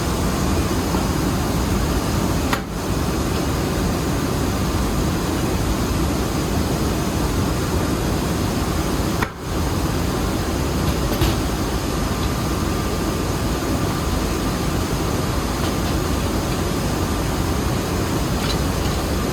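Rice mill machinery running with a loud, steady drone, cutting out briefly twice.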